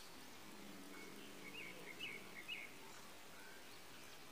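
Quiet background with a handful of short, high bird chirps in quick succession around the middle.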